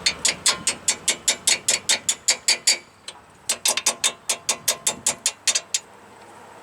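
Hand ratchet wrench clicking as a nut is spun off a bolt, about five clicks a second, in two runs with a short pause about three seconds in.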